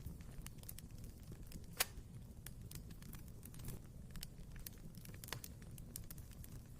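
Wood fire crackling in a fireplace: irregular small snaps over a low rumble of burning, with a sharp louder pop about two seconds in and another near the end.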